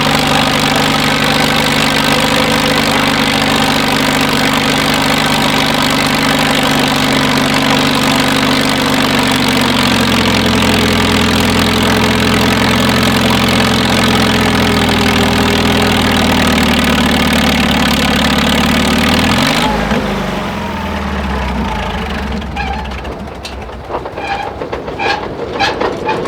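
Tractor engine pulling hard in a tractor pull, running loud and steady, its note shifting about ten seconds in. Around twenty seconds in the engine sound drops away sharply, leaving a quieter, lower engine and scattered clicks.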